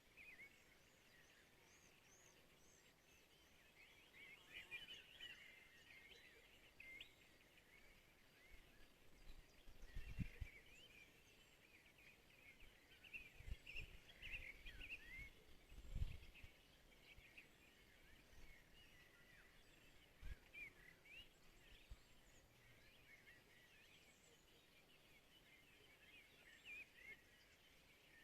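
Several small birds chirping and trilling, faint, with calls overlapping throughout. A few short low thumps about a third and halfway through are the loudest sounds.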